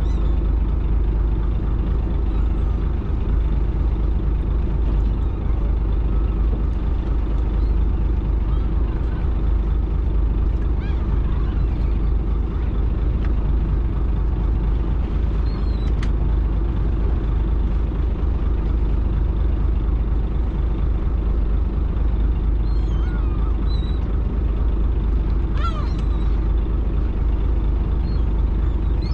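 Fishing boat's engine running steadily, a continuous low drone, with a couple of faint clicks over it.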